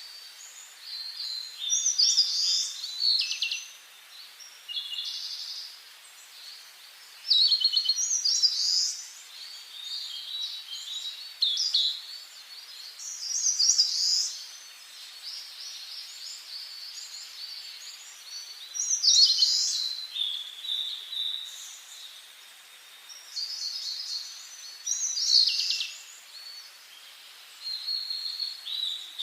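Songbirds singing in short, high, trilling phrases that come every few seconds, over a faint steady hiss.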